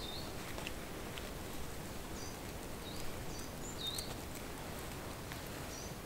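Short, high chirps of a small bird, about half a dozen scattered through, over a steady outdoor hiss. A few faint ticks and rustles come from hands working a twisted fibre cord.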